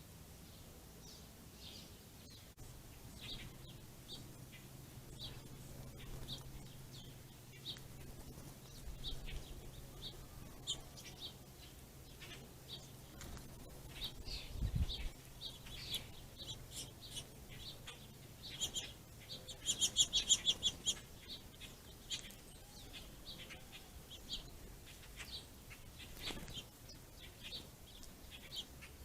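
Small songbirds chirping over and over in short, high chirps, with a fast run of louder chirps about twenty seconds in. A single low thump comes about fifteen seconds in, over a faint steady low hum.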